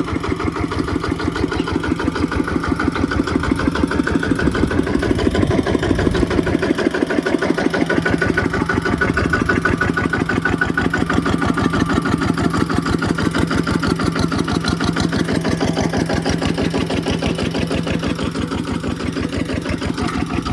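Kubota single-cylinder diesel engine running with a rapid, even chugging beat. It gets a little louder a few seconds in, then eases back.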